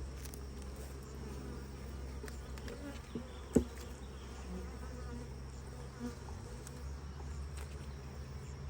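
Honeybees buzzing around an open hive, a steady low hum. A single sharp knock about three and a half seconds in.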